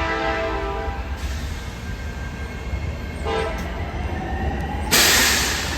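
Horn of an approaching EMD GP-series diesel locomotive hauling a Tri-Rail commuter train: a chord of several notes held for about the first second, then a short blast a little after three seconds in, over a steady low rumble. A loud hissing rush takes over near the end.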